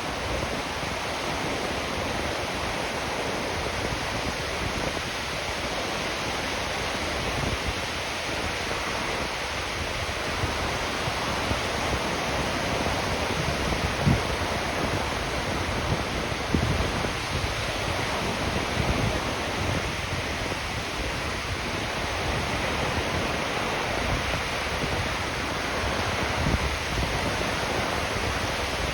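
Ocean surf breaking and washing up the beach: a steady, unbroken rush of waves. A few brief low thumps come about halfway through and again near the end.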